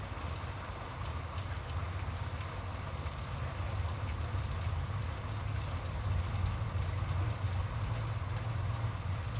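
Steady rain during a thunderstorm, with scattered faint drop ticks over a constant low rumble.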